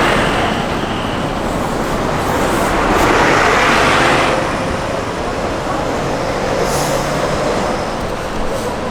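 Vehicle road noise: a steady rushing with a swell about three to four seconds in.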